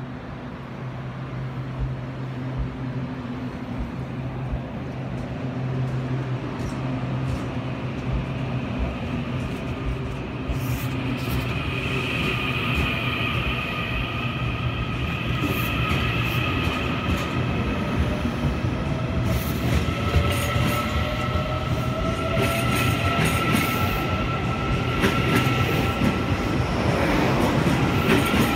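A Taiwan Railway EMU800 electric multiple-unit train rolling along the platform with a steady low hum. From about a third of the way in, high squealing and whining tones join it, along with the clack of its wheels, growing louder as the cars pass close by.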